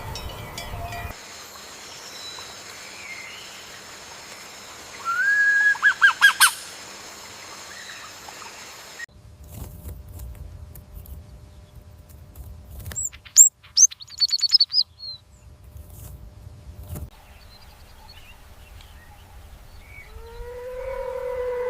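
Bird calls and chirps in a string of abruptly cut short clips: one call rises and breaks into rapid repeated notes, and later come a few high chirps. A long howl begins near the end.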